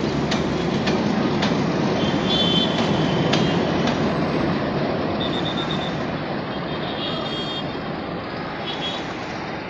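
Passenger train rolling past, its wheels clicking over the rail joints about twice a second over a steady rumble of the carriages, gradually fading as it draws away.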